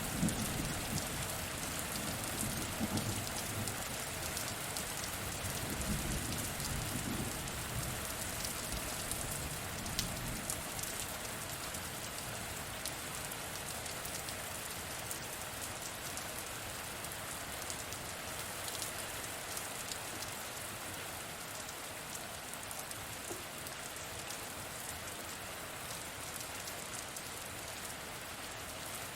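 Steady rain with scattered drop patter, as a roll of thunder rumbles low and dies away over the first several seconds.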